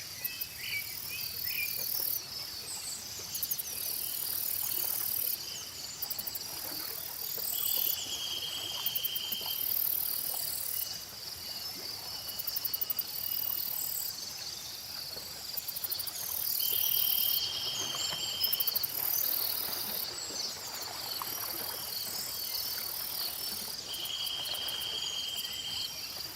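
Insects and crickets chirping steadily in a layered chorus, with a high buzz that switches on and off every second or two. A buzzing trill of about two seconds comes three times, roughly eight seconds apart, and scattered short bird chirps sound over it.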